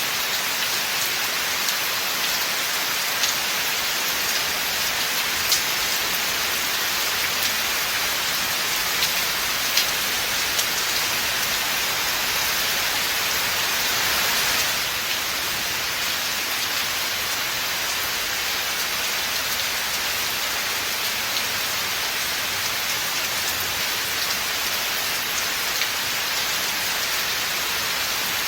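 Steady rain falling in a forest: a dense, even hiss with scattered sharper drop taps, swelling slightly about halfway through before easing back.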